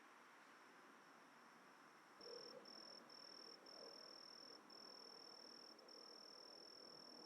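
A night insect's steady, high-pitched trill starts about two seconds in and carries on with a few brief breaks, faint over a soft background hiss.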